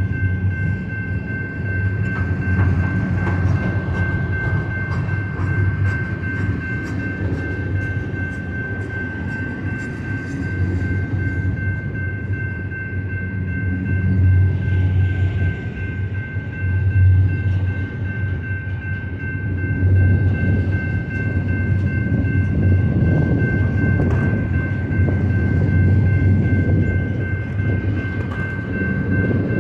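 Double-stack intermodal freight train rolling steadily past, its wheels rumbling on the rails with a run of regular clicks over rail joints partway through. A railroad crossing bell rings steadily over it.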